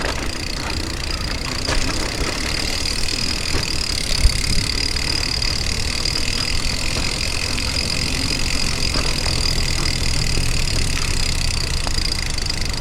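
Kingsong S22 electric unicycle being ridden along a trail, its motor giving a steady high whine over the low rumble of the tyre and wind, with a single knock about four seconds in.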